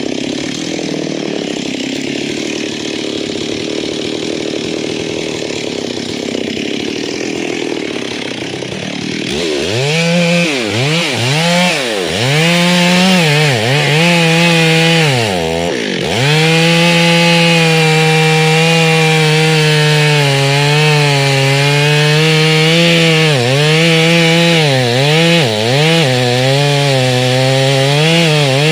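Two-stroke chainsaw running: a rough, even noise for the first third, then about ten seconds in the engine note swoops down and back up several times before holding at high revs with small wavers.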